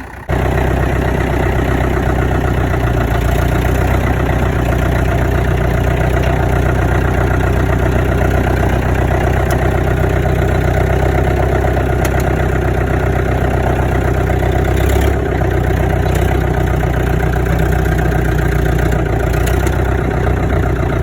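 Diesel engine of an International BTD6 crawler dozer running steadily, with a brief drop in level about fifteen seconds in.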